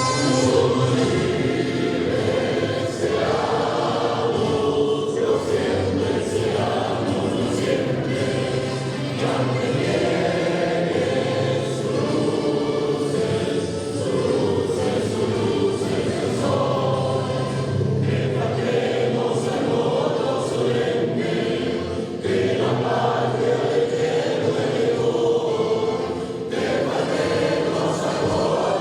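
Choral music: a choir singing steadily.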